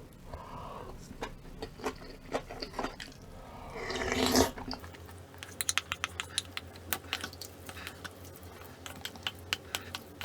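Close-up eating sounds: a slurp of beef radish soup that builds to a loud peak about four seconds in, then a quick run of crisp, crunchy chewing clicks.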